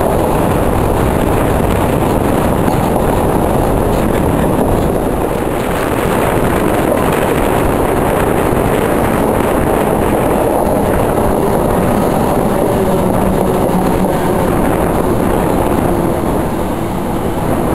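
Electric passenger train running along the rails, heard from an open window: a steady rush of wheel and wind noise. A faint whine comes in near the end as it nears the station platform.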